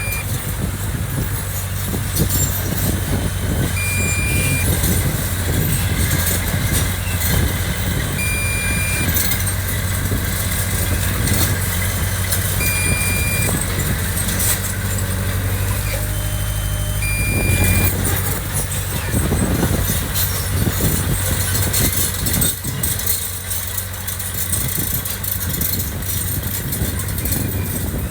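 Diesel engine of heavy earthmoving machinery running steadily. A short single-tone alarm beep sounds about every four seconds through the first two-thirds, then stops.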